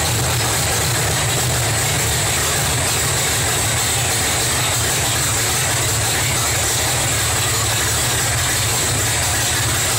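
Carbureted V8 engine of a 1967 Ford Mustang drag car idling steadily with the hood open.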